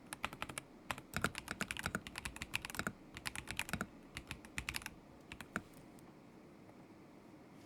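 Typing on a KZZI K75 Pro mechanical keyboard with Moment linear switches: quick runs of keystrokes for about five seconds, then a couple of last key presses and a pause.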